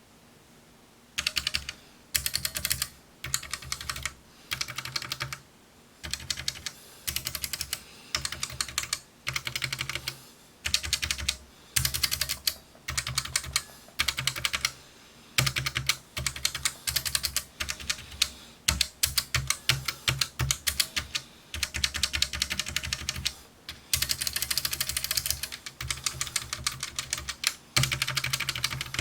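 Typing on a Monsta MK308 mechanical gaming keyboard fitted with Gateron optical switches: quick runs of keystrokes in short bursts, separated by brief pauses.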